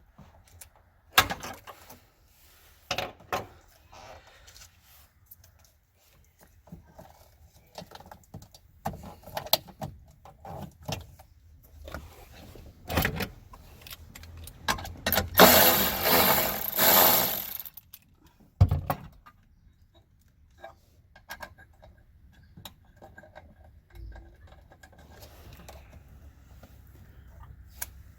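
Scattered metallic clinks and knocks of hand tools and parts being handled while the high-voltage battery pack of a 2005 Honda Civic Hybrid is unfastened and removed. About halfway through there is a louder three-second rush of rattling noise, then a single heavy thud.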